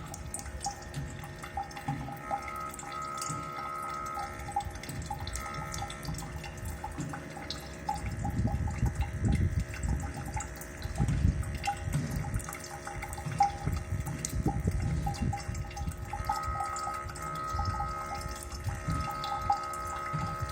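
Faucet dripping and giving off a thin high whine that comes and goes, breaking off in the middle and returning near the end, with low surging water noise in between. The uploader suspects an aged, hardened rubber washer or a faulty ceramic valve cartridge inside the tap.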